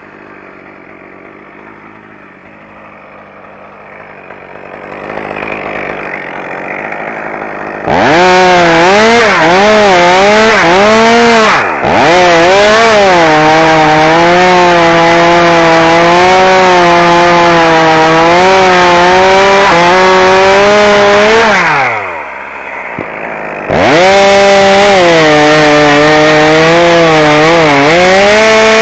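Chainsaw engine revved to full throttle and held there under load, likely cutting into wood, its pitch wavering as the chain bites. It is quieter for the first several seconds. About twenty-two seconds in the throttle is released and the pitch falls away, then it is revved back up to full speed about two seconds later.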